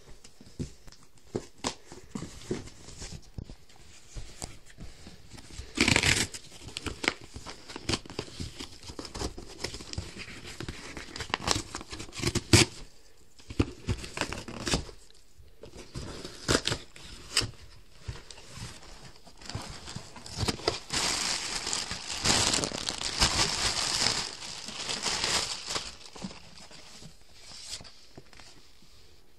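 Packaging of new shin guards being handled, crinkled and torn open: irregular rustles and clicks, with a loud burst about six seconds in and a longer spell of heavy crinkling and tearing about two-thirds of the way through.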